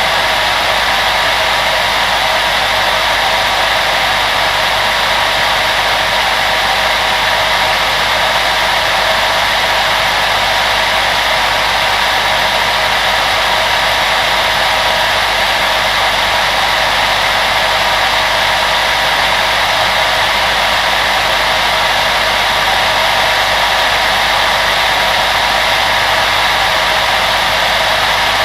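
Electric blower fan, of the kind in a hair dryer or kitchen range hood, running steadily: an even rush of air with a faint constant whine, with no change in speed.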